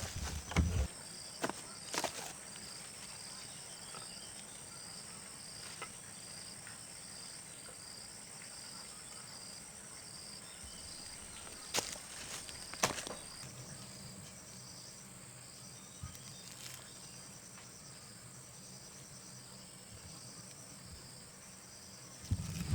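Insects chirping in a steady, even rhythm over a constant high drone, with a few sharp knocks near the start and two more about halfway through.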